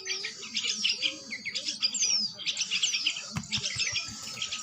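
Many fledgling songbirds chirping together: rapid, overlapping high chirps and short falling whistles. A few low knocks sound about three and a half seconds in.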